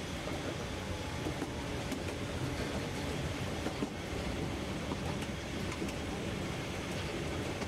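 Harz narrow-gauge train running along the track, heard from inside a carriage: a steady rumble of wheels and carriage with a few faint clicks.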